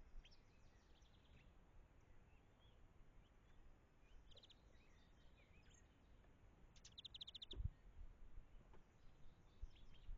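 Faint birdsong: scattered short chirps with two quick trills, a short one about four seconds in and a longer one of about ten rapid notes near seven seconds, followed by a brief low thump.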